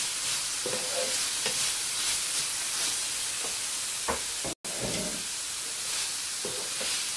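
Chicken and grated-carrot filling sizzling in a nonstick frying pan while a wooden spatula stirs and scrapes it, the cooking water now boiled off so the mixture fries dry. The sound drops out for a split second a little past halfway.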